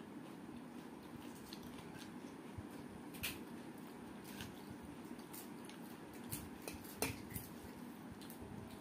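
A person chewing a mouthful of rice and curry eaten by hand, close to the microphone, with scattered sharp mouth clicks, the strongest about three seconds in and again about seven seconds in, over a steady low hum.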